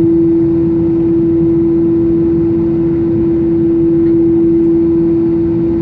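Cabin noise of an Airbus A320 taxiing with its CFM56 engines at idle: a steady hum over a continuous low rumble.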